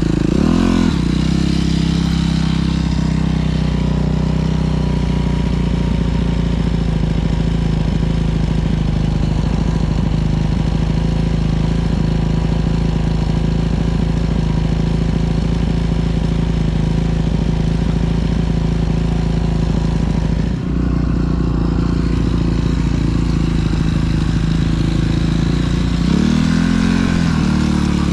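Dirt bike engine running steadily under way on the trail. The throttle drops off briefly about 20 seconds in, and the revs rise and fall near the end.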